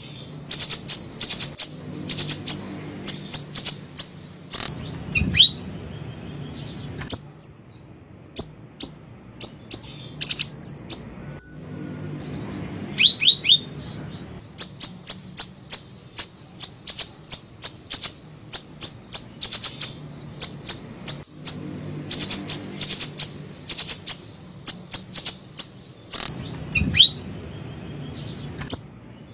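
Recorded song of the small bird called siri-siri: rapid clusters of very short, high-pitched chirps, with brief pauses and a few falling notes between the bursts.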